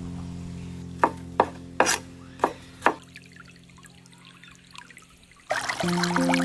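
Five sharp knife strikes on a cutting board as fruit is chopped, over a fading held music note; background music starts again near the end.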